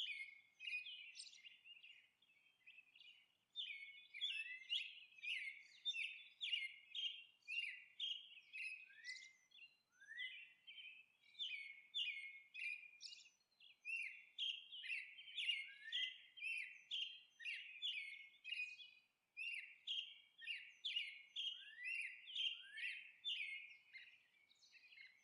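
A small bird chirping in a long run of short, high chirps, about two a second, with a brief pause near the start.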